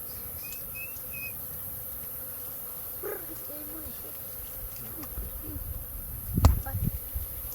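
Wild honeybees buzzing around their nest in a baobab, agitated by smoke from the fire set to drive them off the honey. Three short high chirps sound about half a second in. Low rumble builds from about five seconds in, with a sharp knock about six and a half seconds in.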